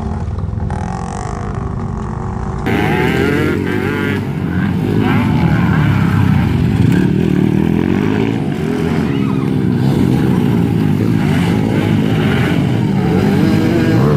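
Several motocross bike engines revving, their pitch rising and falling and overlapping as the throttles open and close; the sound steps up louder about three seconds in.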